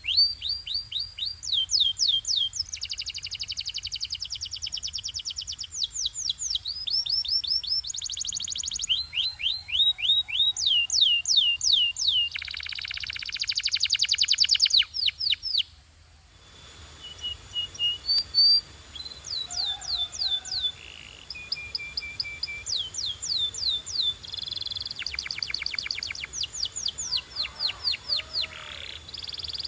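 Domestic canary singing: phrases of quickly repeated, high, down-slurred whistled notes and fast trills, with a short pause about halfway through.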